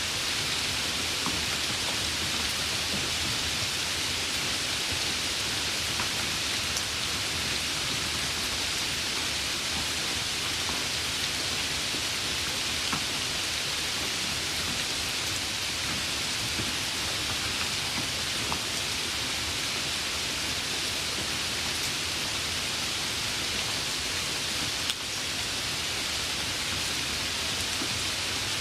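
Steady rain falling, a dense even hiss with a few separate drops ticking through it. Near the end there is a single sharp click and a brief dip in the hiss.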